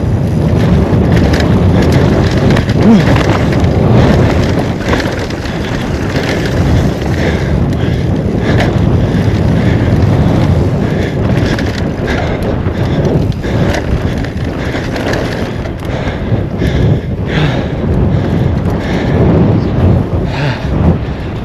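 Mountain bike descending a rocky dirt trail: steady tyre rumble over dirt and rock with frequent knocks and rattles from the bike, and wind buffeting the microphone.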